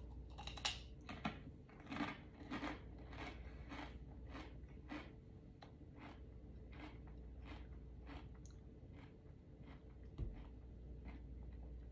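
Crunchy fried ramen-noodle snack chip bitten and chewed, a steady run of crisp crunches about two a second, louder in the first few seconds and softer after.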